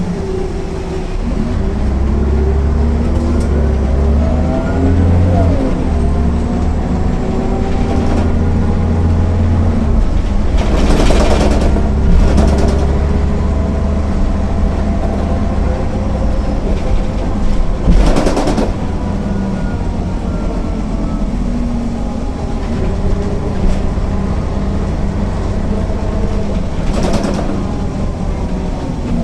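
Diesel engine of a MAN NL 262 city bus running under way, its pitch rising and falling as the bus pulls through the gears. Several short bursts of hiss break in along the way.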